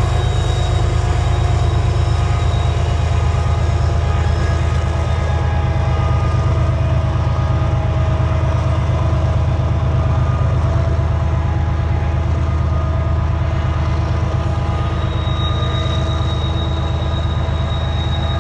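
Freight train climbing a mountain grade: a loud, steady deep rumble of diesel locomotives working hard and heavy cars rolling on the rails. Several thin, steady high tones ride over it, and a high squeal grows clearer near the end.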